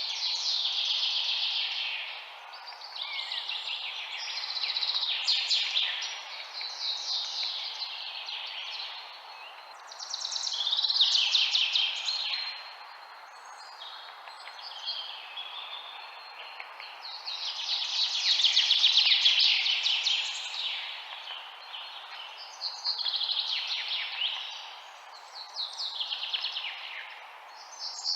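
Songbirds singing: repeated phrases of rapid trills that fall in pitch, a new phrase every two or three seconds, over a steady background hiss.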